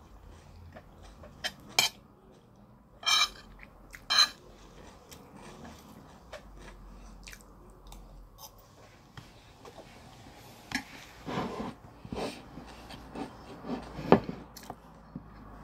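Close-miked eating sounds: chewing with wet lip smacks and mouth clicks, several sharp clicks in the first few seconds and a louder knock near the end.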